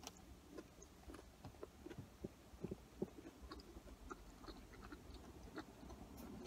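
Faint closed-mouth chewing of cheese-covered curly fries: a scatter of small, soft mouth clicks.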